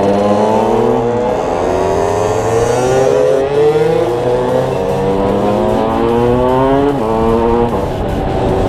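Derbi DRD 50cc two-stroke motorcycle engine accelerating hard through the gears. The pitch climbs steadily and drops at each gear change, once about a second in and twice in quick succession near the end.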